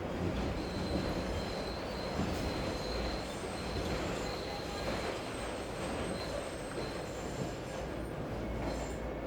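A train running past over a steady noise, its wheels squealing in a thin, high tone that comes and goes.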